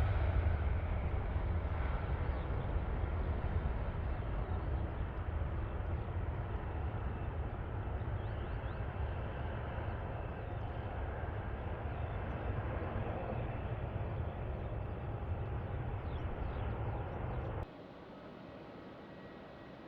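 Airliner engine noise: a deep, noisy rumble that slowly fades as the aircraft moves away, cut off abruptly near the end and replaced by a quieter steady background hiss.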